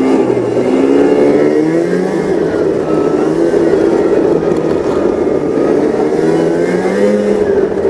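Snowmobile engine running while riding, its pitch drifting gently up and down with the throttle.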